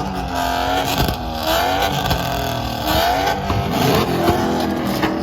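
Chevrolet Camaro V8 engines revved repeatedly through loud exhaust, the pitch climbing and dropping about once a second, with a few sharp exhaust cracks.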